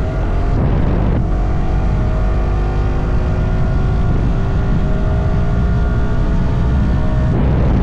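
Stock Yamaha R125's 125 cc single-cylinder four-stroke engine pulling on the move, its note climbing slowly, with brief breaks about a second in and again near the end.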